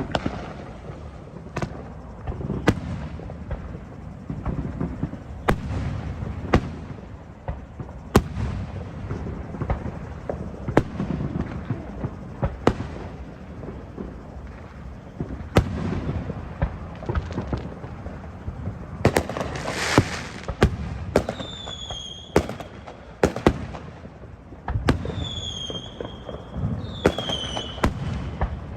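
Fireworks display: a steady run of sharp bangs and low booms from bursting shells. Near the end come several short, high whistles that each fall in pitch.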